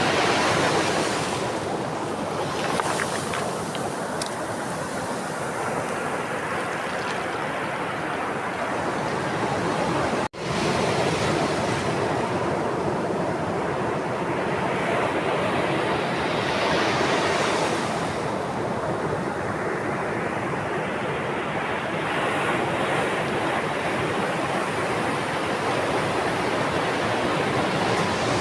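Ocean waves breaking and washing up the shore, a continuous rush that swells with each incoming wave every few seconds. The sound cuts out for an instant about ten seconds in.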